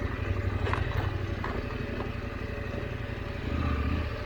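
KTM 890 Adventure's parallel-twin engine running at low revs, with an even low pulsing, as the bike is ridden slowly over a rocky trail; the engine note rises briefly near the end, and a few faint clicks sound over it.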